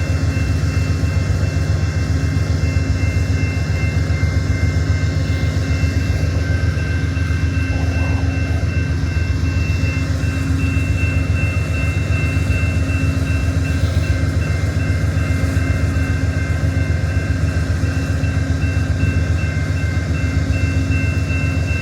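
Amtrak Borealis train's diesel locomotive running steadily while the train stands in the station: a deep, even engine hum with a steady high-pitched whine over it.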